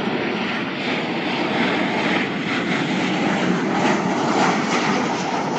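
Airbus A330-300 jet engines running, a loud, steady rush of engine noise.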